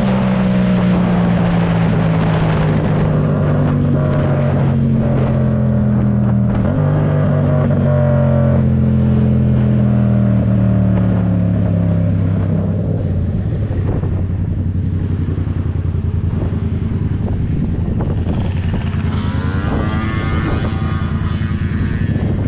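Yamaha MT-07 parallel-twin motorcycle engine under way: its pitch falls as it slows, steps up once about seven seconds in, falls again, then rises near the end as it accelerates.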